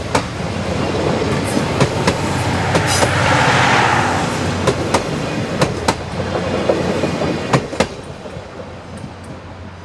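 A steam-hauled train passing: its wheels clicking over rail joints, often in pairs, over a steady rumble and rush, with a swell of noise about three seconds in, fading away near the end.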